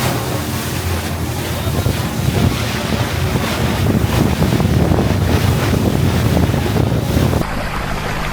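Wind buffeting the microphone over the rush of water and the steady engine note of a moving motorboat. Near the end it cuts abruptly to a quieter, steady low engine hum.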